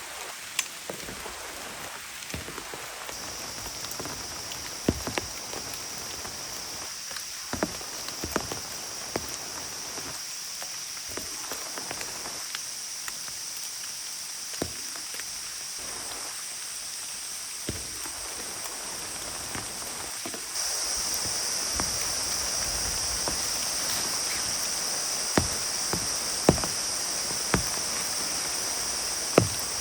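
Heavy rain falling steadily, with scattered louder drops striking a surface. The rain grows louder about two-thirds of the way through.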